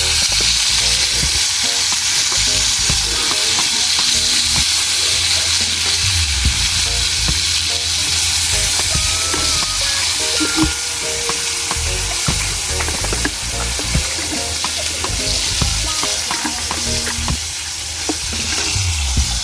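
Food frying in hot oil in a pot: a steady sizzle, with scattered clicks and scrapes of stirring and a low rumble beneath.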